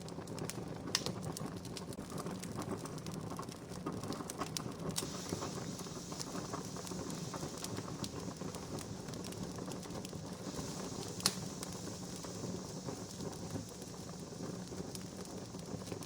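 Wood fire crackling steadily, with many small snaps and a single loud pop about eleven seconds in.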